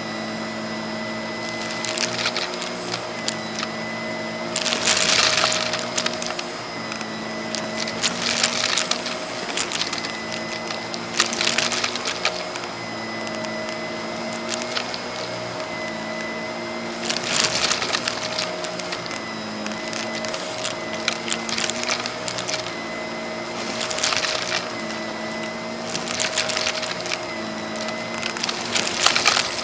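Vacuum cleaner running steadily with a motor hum, picked up close by a mic on the machine, while it sucks up cut-up cardboard jigsaw puzzle pieces. The pieces rattle and crackle through the hose in repeated bursts every few seconds.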